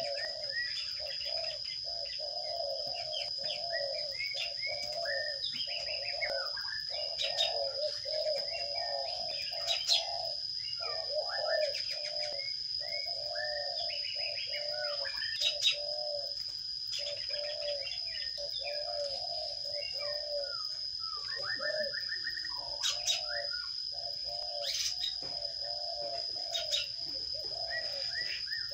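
Sparrows chirping in short, quick notes over doves cooing again and again, with a steady high whine underneath and a few sharp clicks.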